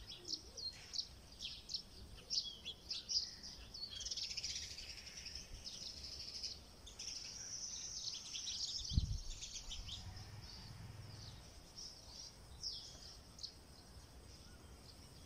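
Small birds chirping and twittering in many quick high notes, busiest over the first ten seconds and thinning out after. A single dull thump about nine seconds in.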